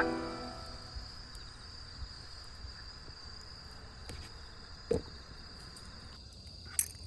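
Autumn night insects chirring steadily, a high thin continuous trill, with a few faint crackles from the wood campfire and one louder pop about five seconds in.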